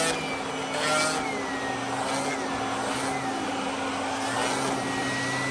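Vacuum cleaner running steadily, a thin whistle drifting up and down in pitch over its hum, with brief louder rushes at the start and about a second in.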